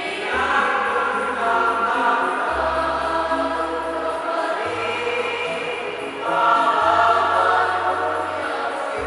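A high school choir singing in harmony, holding long notes over low, steady bass notes that change pitch every two seconds or so. The voices swell louder about six and a half seconds in.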